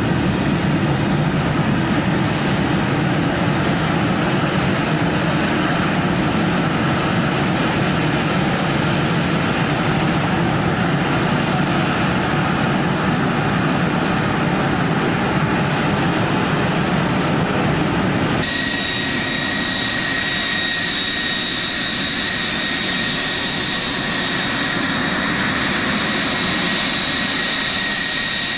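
Jet airliner engines running, a steady rumble; about two-thirds of the way through it switches abruptly to a different jet engine sound with a steady high-pitched whine.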